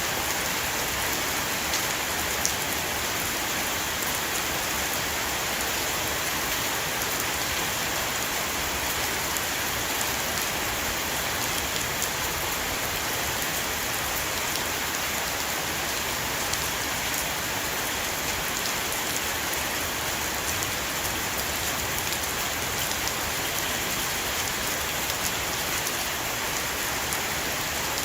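Steady heavy rain shower falling on a roof, an even hiss with scattered faint drop ticks.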